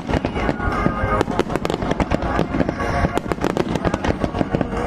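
Starmine fireworks show: a dense, rapid run of bangs and crackles, several a second, with music playing over them.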